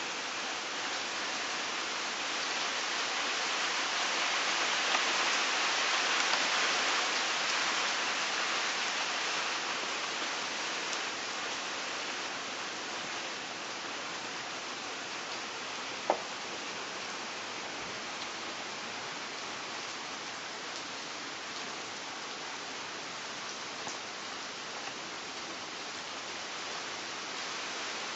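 Heavy rain pouring down steadily, swelling a little a few seconds in. A single sharp click sounds about halfway through.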